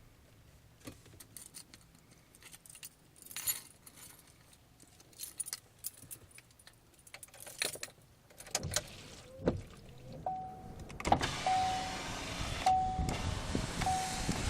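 Scattered clicks and jingling of car keys being handled. Then, about ten seconds in, a steady rush of car noise starts up, and a car's warning chime beeps at an even pace, about once every 1.2 seconds.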